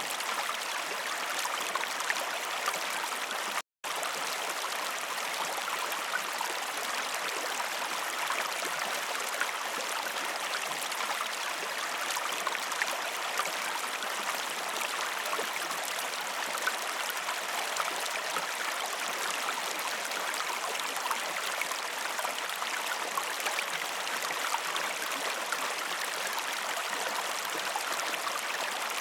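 Waterfall water rushing in a steady, even roar, with a brief dead-silent gap just under four seconds in.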